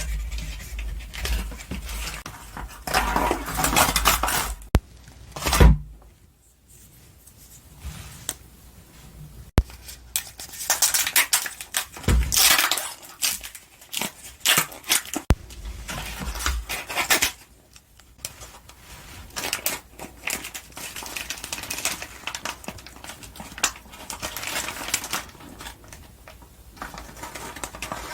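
Close-miked knife and fork clinking and scraping on a plate as wagyu top blade steak is cut and eaten. Irregular bursts of crackly noise and sharp clicks come and go, with a few short pauses.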